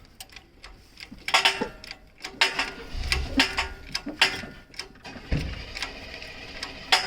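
Engine hoist popping and clicking as it takes the weight of the engine, with irregular metallic clicks and knocks and a few dull thuds.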